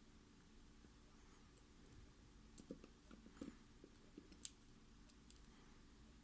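A few soft clicks and light taps over near silence, the sharpest about four and a half seconds in: small metal parts of a Mul-T-Lock MT5+ lock being handled.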